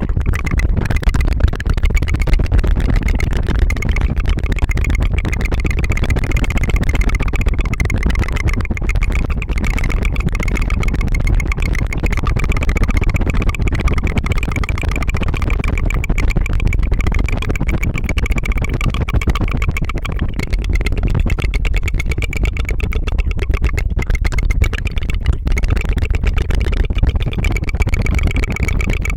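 Mouth sounds: continuous rapid tongue fluttering (a rolled tongue trill) close to a binaural microphone, a steady put-put-put that does not let up.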